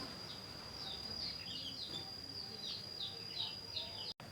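Small aviary birds chirping: a run of short, quick down-slurred chirps, several close together at times, over a steady high-pitched whine. The sound cuts out for an instant near the end.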